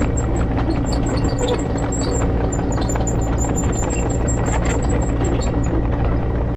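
Vehicle engine running steadily, with rapid high chirps above it. It cuts off suddenly near the end.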